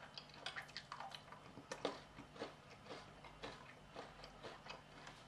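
Faint chewing of chocolate protein bites: soft, irregular mouth clicks and smacks.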